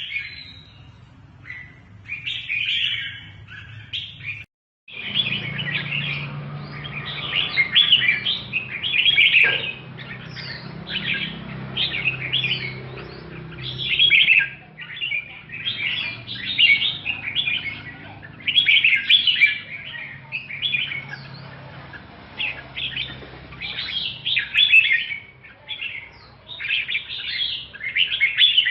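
Red-whiskered bulbul singing: quick, bright chirping phrases one after another, with a short full break about four and a half seconds in. A faint steady low hum runs underneath.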